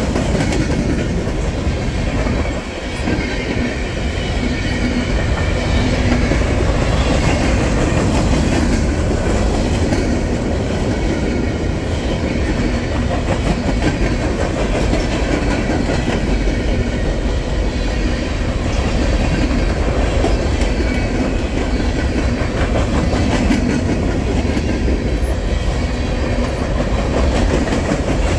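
Freight train cars rolling steadily past, wheels clicking over the rail joints.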